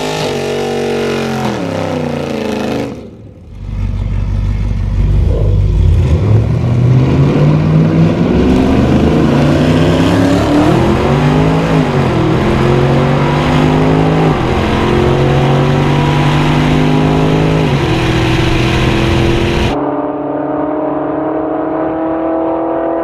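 V8 engines of a supercharged Camaro ZL1 and a Camaro SS racing at full throttle on a drag strip. The engine note climbs in pitch and drops sharply at each upshift, about three shifts. Near the end it gives way to a steadier, more distant engine note.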